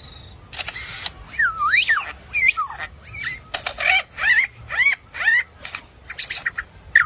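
Birds calling: a busy run of harsh squawks mixed with whistled chirps that glide up and down in pitch, several a second, starting about half a second in.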